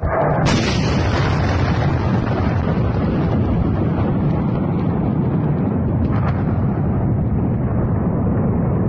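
A large explosion: a sudden blast followed by a loud, sustained rumble that holds steady without fading.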